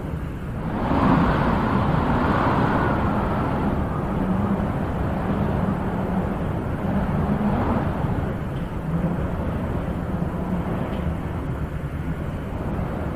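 Wind blowing in gusts: a steady rushing with a low rumble, swelling about a second in and easing off again.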